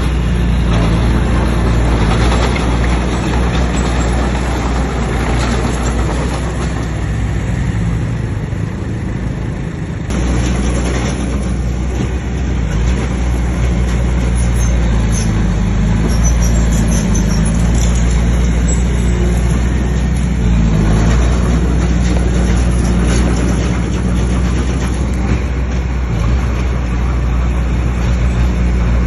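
Bulldozer's heavy diesel engine running steadily, with a slight dip in level about eight to ten seconds in.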